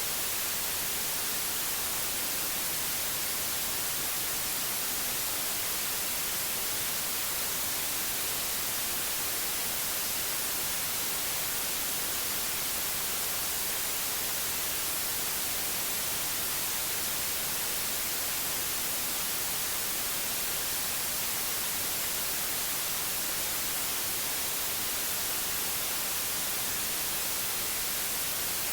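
White noise: a steady, unchanging hiss, strongest in the high end.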